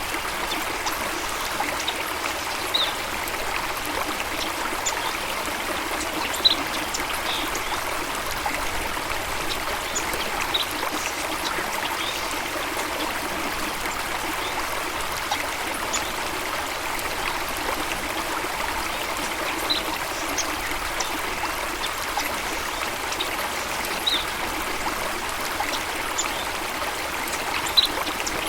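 Flowing water running steadily, with brief high bird chirps every few seconds.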